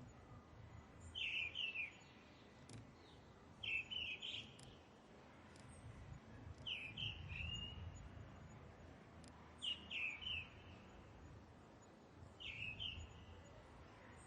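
A bird repeating a short, sweeping call five times, about once every three seconds, over a faint low rumble.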